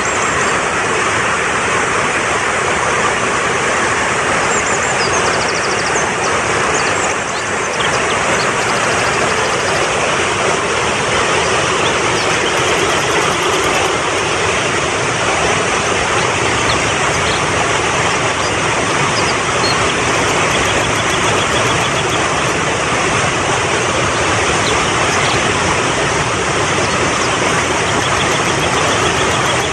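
Fast-flowing mountain stream rushing steadily over rocks, with faint, short high chirps now and then.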